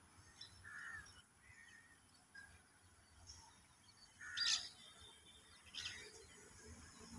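Faint bird calls over a quiet open-air background: a few short, separate cries, the loudest about four and a half seconds in.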